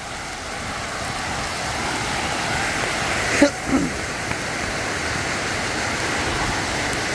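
Heavy rain falling, an even hiss that grows louder over the first couple of seconds and then holds steady. A brief cry cuts in about halfway.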